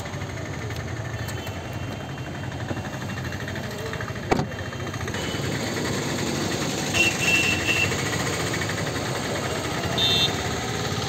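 Hyundai Eon hatchback's three-cylinder petrol engine idling steadily, with a single sharp knock about four seconds in.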